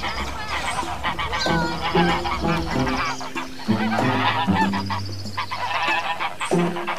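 Swans honking repeatedly, several calls overlapping.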